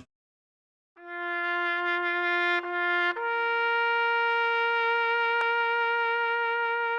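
A brass-like horn tone sounding two notes: a lower note held for about two seconds, then a higher note held steadily for about four seconds.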